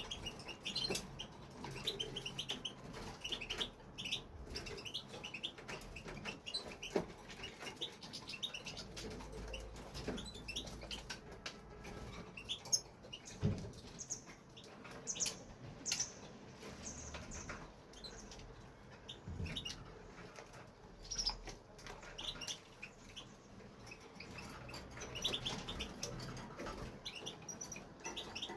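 European goldfinch giving scattered short chirps and twitters in broken phrases rather than a full song, with many small clicks and rustles among them.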